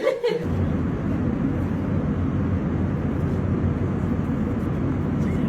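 Airliner cabin noise: a steady low drone of engines and airflow, starting abruptly about half a second in.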